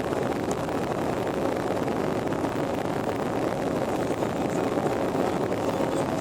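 Airliner engine and airflow noise, a steady unbroken rush with a faint hum in it.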